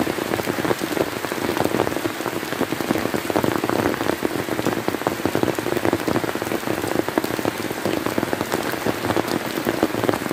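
Steady rain falling, with many individual drops striking close by as a dense run of sharp ticks over an even hiss.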